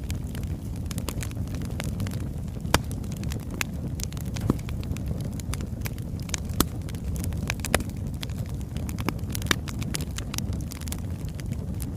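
Wood fire burning: a steady low rumble under frequent sharp crackles and pops from the logs, a few of them louder than the rest.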